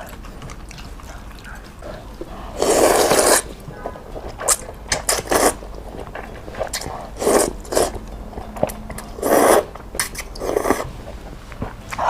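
Close-up eating sounds: a person chewing and biting food in separate wet bursts a second or two apart.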